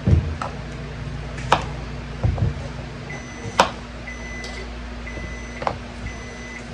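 A kitchen appliance beeping: a short high electronic beep repeating about once a second, starting about three seconds in, over a low steady hum. A few sharp clicks and knocks of handling come in between.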